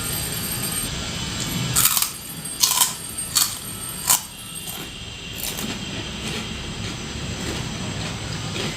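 Close-up chewing of a crisp fried snack: four sharp crunches between about two and four seconds in, over a steady background hiss.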